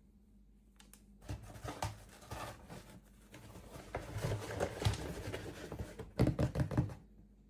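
Plastic packaging being handled and unwrapped: irregular crinkling and rustling with small clicks, starting about a second in and loudest shortly before it stops near the end.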